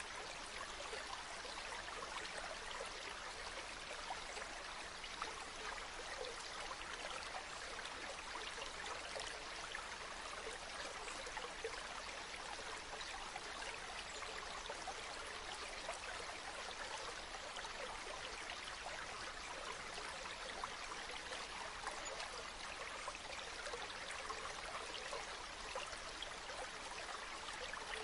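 A shallow river babbling steadily over stones, an even rushing trickle with no pauses.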